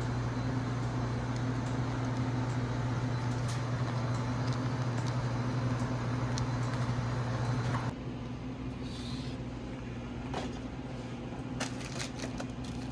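A steady low mechanical hum with a rushing, fan-like noise over it. About eight seconds in the rushing noise drops away and the sound gets quieter, leaving the hum and a few light clicks.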